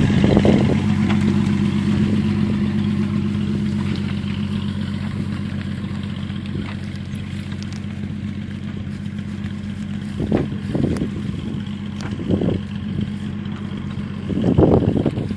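A 1977 Jeep CJ5's engine running at a steady pitch and slowly getting quieter as the Jeep moves off. Short bursts of noise come in a few times near the end.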